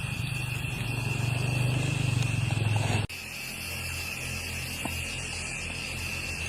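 Steady low motor hum with a thin, steady high whine over it; about three seconds in it breaks off sharply and a lower, slightly different hum carries on.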